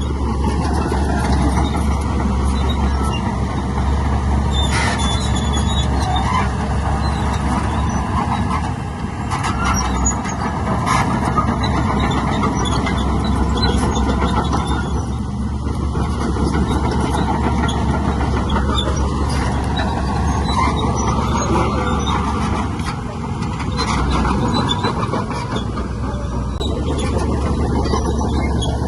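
Heavy diesel earthmoving machinery running steadily under load, with a few brief squeaks and clanks of metal.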